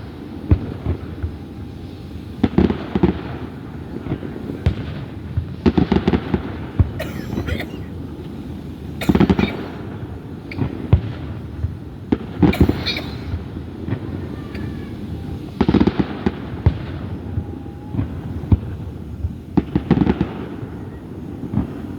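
Aerial fireworks display: shells bursting with loud bangs every one to four seconds, each trailing off in an echo, over a steady low rumble of more distant fireworks.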